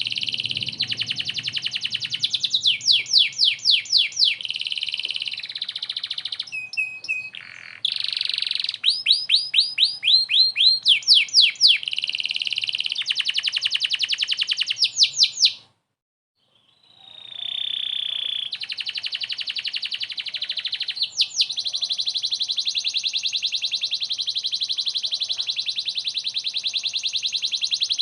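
Domestic canary in full song, a string of fast trills and rattling rolls. The song breaks off for about a second and a half just past the middle, then resumes and settles into one long, even roll.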